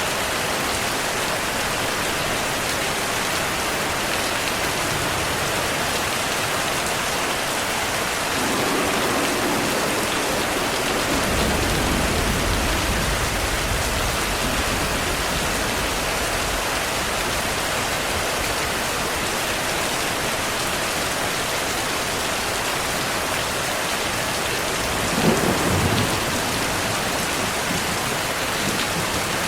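Steady rain with thunder: a low rumble swells about a third of the way in and rolls on for several seconds, and a sharper, louder thunderclap comes near the end.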